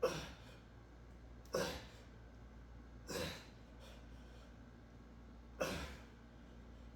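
A person breathing out sharply four times, short forceful exhales spaced about one and a half to two and a half seconds apart.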